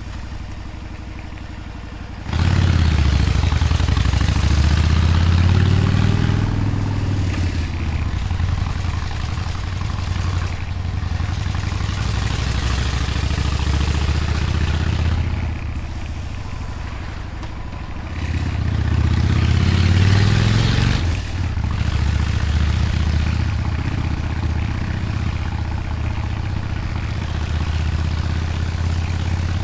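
Motorcycle engine under way, opening up sharply about two seconds in, then rising and falling in pitch as the throttle and gears change, with a brief dip in engine note a few seconds before the end of a second rise, and wind rushing over the microphone.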